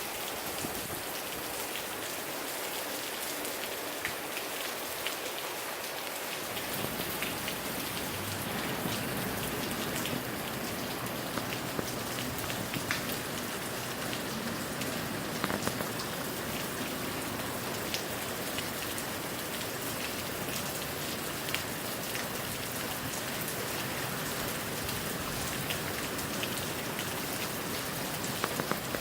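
Steady moderate rain with gusty wind: an even rush of rainfall with scattered sharp drop ticks, and a deeper wind rumble that comes in about six seconds in and stays.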